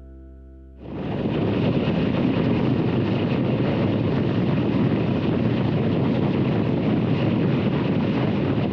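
The last held note of guitar music dies away, then at under a second in a loud, steady rush of wind on the microphone of a moving motorcycle cuts in and continues.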